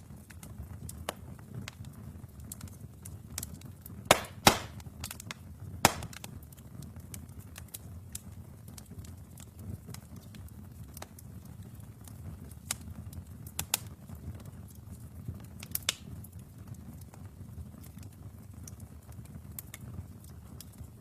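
Wood fire burning in a fireplace: a steady low rumble of flames with scattered crackles and sharp pops of burning logs, the three loudest pops coming about four to six seconds in.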